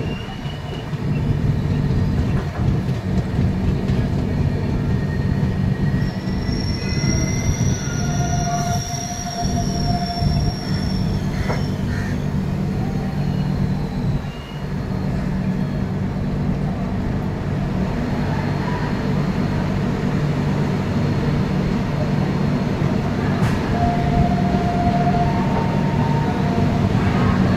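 Passenger train running through a station without stopping, heard from on board: a steady rumble of the wheels on the rails, with high wheel squeals about six to eleven seconds in and again near the end.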